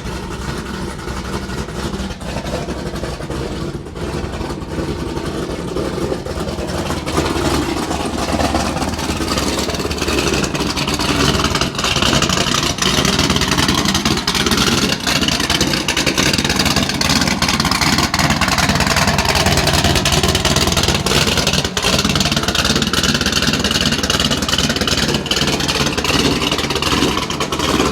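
Cammed LS3 V8 of a C6 Corvette, with ported heads, running just after a cold start through a Corsa Extreme exhaust with the catalytic converters deleted: a steady, really loud exhaust note. It grows louder over a few seconds partway through and then holds.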